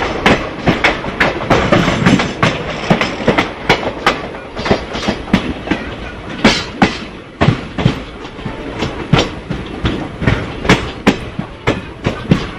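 Express passenger train's coaches rolling along the track, wheels clacking over rail joints several times a second over a continuous rumble.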